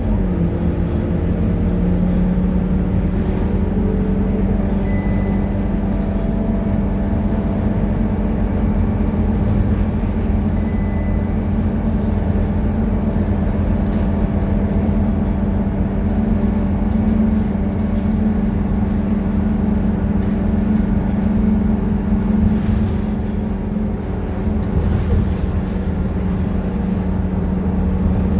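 Scania K230UB city bus's five-cylinder diesel engine running steadily, a low drone whose pitch drops just after the start. Two short, high electronic beeps come about five and eleven seconds in.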